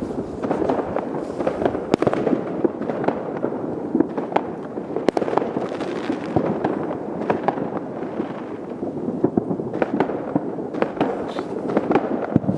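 New Year's fireworks and firecrackers going off in great numbers: a dense, continuous crackle of pops and bangs, with a few louder bangs standing out.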